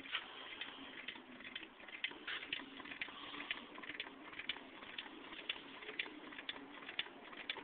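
Homemade paint-can Stirling engine running, giving a sharp, regular click about twice a second.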